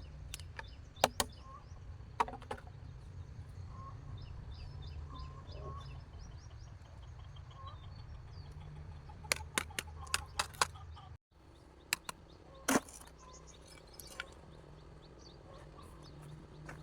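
Scattered sharp knocks and clicks over a steady low rumble, with small birds chirping. The sound drops out briefly just past the middle.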